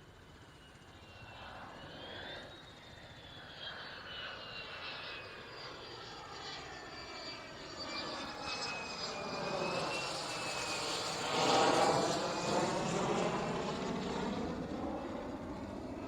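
Fighter jet flying past: a rushing jet noise with a high whine that builds over about ten seconds, is loudest about twelve seconds in, then eases off slightly.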